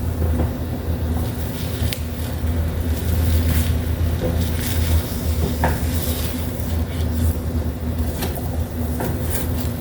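A steady low hum throughout, with occasional light clicks and scrapes of a utensil on a frying pan as eggs are stirred.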